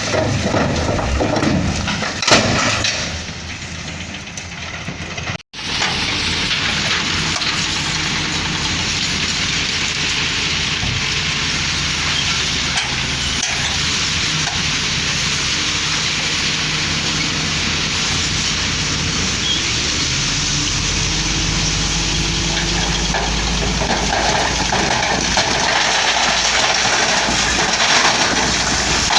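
Diesel engines of heavy road-construction machinery running, a steady noisy drone. The sound cuts out for an instant about five seconds in, and a deeper low rumble joins after about twenty seconds.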